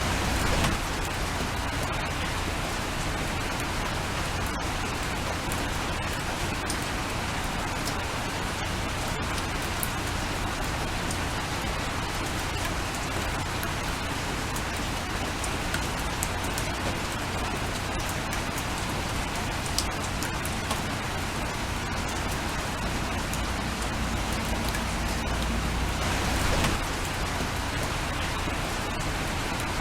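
Steady rain falling, an even hiss with scattered fine drop ticks, swelling briefly louder about a second in and again near the end.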